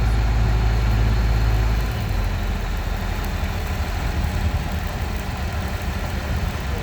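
A heavy engine running with a deep, steady rumble that drops in level about two seconds in, over steady engine and traffic noise.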